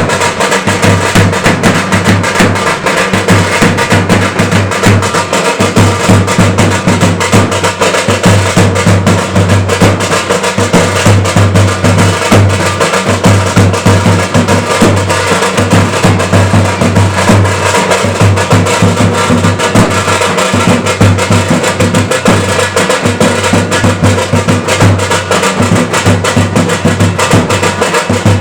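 Loud percussion music: drums beaten in a fast, dense, unbroken rhythm.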